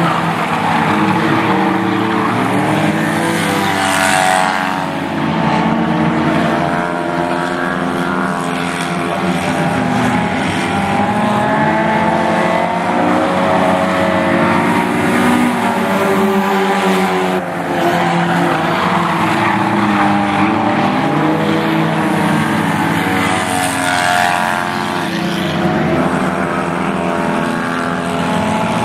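Several race car engines running at speed around a track, their pitches rising and falling as the cars pass, in one continuous loud wash of engine sound.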